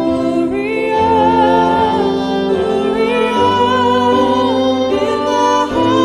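Woman singing a hymn melody with vibrato, held notes gliding between pitches, over sustained piano and wind-instrument accompaniment.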